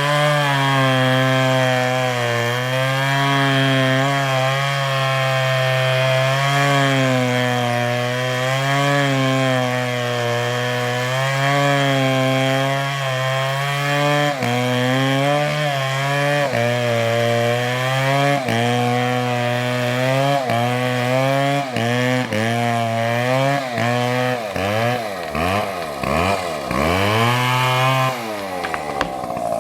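Large two-stroke chainsaw, an MS720, cutting into a big tree at high revs, its pitch wavering as the chain bites. In the last few seconds the revs drop and rise sharply several times, then fall away toward idle.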